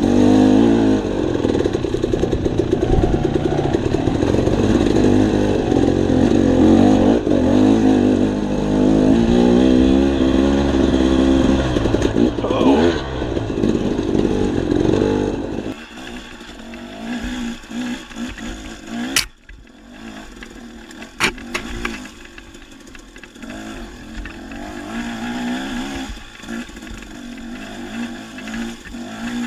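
Dirt bike engine running on a trail ride, its pitch rising and falling with the throttle. About halfway through the level drops suddenly to a much quieter engine sound, with two sharp clicks a couple of seconds apart.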